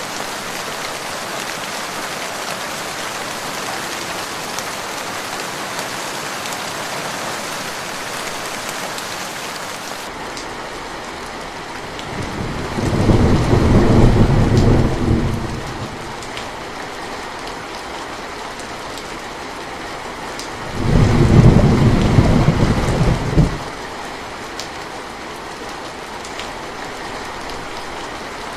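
Steady rain falling, a hissing patter that turns duller and lower about a third of the way in. Two rolls of thunder, each lasting about three seconds, rumble over it: one near the middle and one about three-quarters through. The thunder rolls are the loudest sounds.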